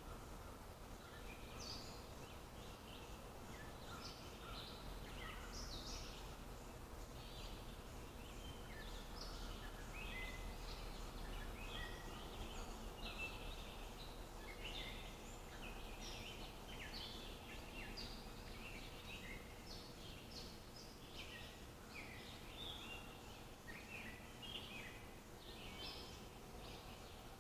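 Wild birds chirping and calling, with many short, high notes overlapping throughout. Under them runs a faint, steady low rumble.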